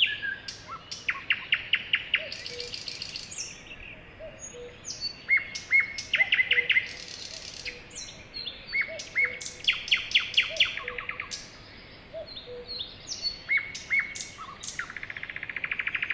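Several birds singing together: a mix of rapid chirping trills, short whistled notes and quick high calls overlapping one another, with a fast buzzy trill near the end.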